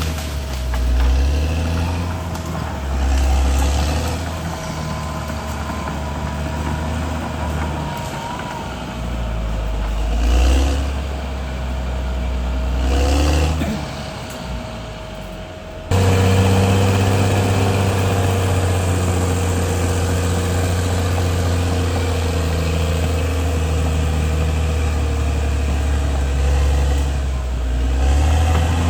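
CAT D6R XL bulldozer's diesel engine working, its pitch and loudness swelling and easing as the load changes. About halfway through the sound jumps abruptly to a louder, steadier run.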